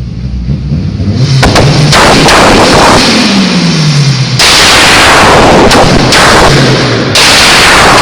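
Mitsubishi Lancer Evo VIII MR's tuned turbocharged four-cylinder engine running with anti-lag active. After about a second of engine hum, rapid loud bangs and crackles burst from the exhaust, with the revs dropping around the middle.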